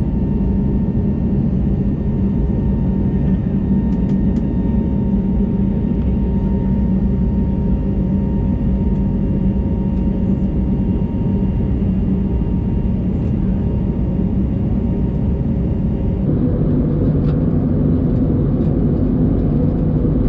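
Airbus A321neo cabin noise in flight: a steady, loud roar of engine and airflow with a faint hum of steady tones over it. About 16 seconds in, the drone abruptly changes character slightly and continues.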